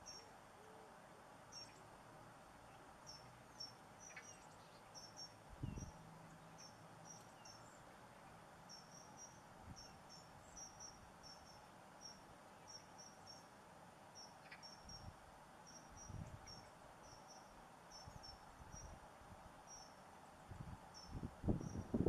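Faint, short high chirps of a small songbird calling in the background, repeated a few times a second with brief pauses. Low muffled thumps come in near the end.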